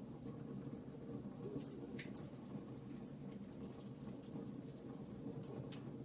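Wood fire burning in a fireplace: a steady low rumble with frequent small crackles and pops. Two sharper pops come about two seconds in and near the end.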